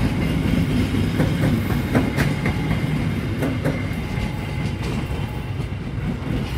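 Train rolling past slowly: a steady low rumble with pairs of sharp clicks as the wheels cross rail joints.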